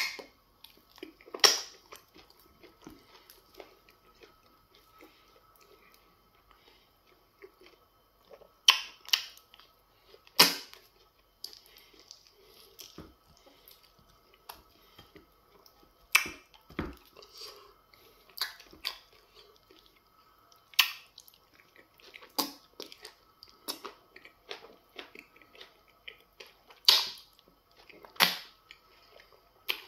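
Close-up chewing and wet mouth smacking of a person eating semolina fufu with okra soup by hand. Sharp, smacking clicks come every few seconds over quiet chewing.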